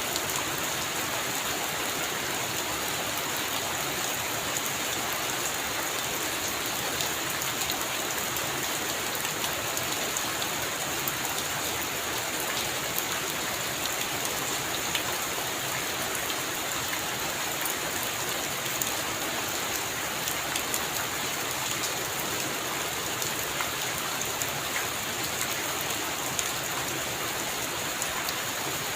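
Heavy rain falling steadily on a roof, a dense even hiss with many fine drop ticks.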